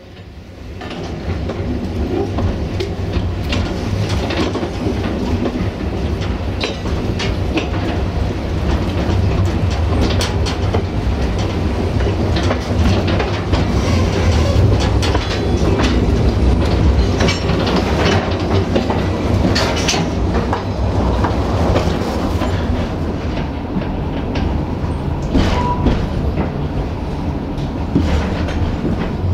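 Narrow-gauge train running along the track: a steady rumble with the clickety-clack of wheels over rail joints. It builds up within the first second or two, then holds steady.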